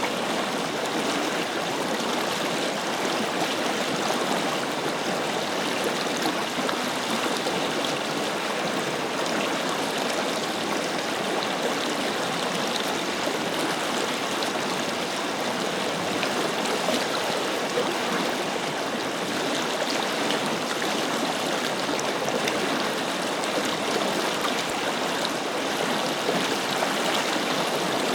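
Forest river flowing steadily, a continuous rush of water with fine gurgling detail and no breaks.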